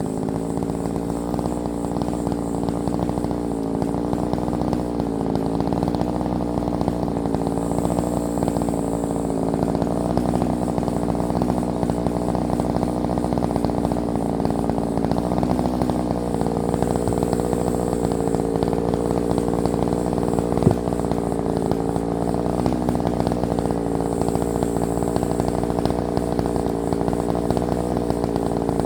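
Chainsaw engine running steadily for the whole stretch, its pitch wavering slightly, with one sharp knock about twenty seconds in.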